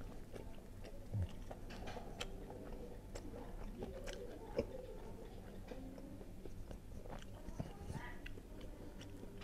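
A person chewing a bite of crispy fried otak-otak (fish cake) close to a clip-on microphone: soft scattered crunches and mouth sounds, with two sharper crunches, about one and four and a half seconds in.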